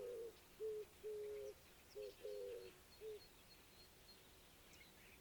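A dove cooing a repeated phrase of short and longer low coos, which stops about three seconds in, with faint high chirps of other small birds behind it.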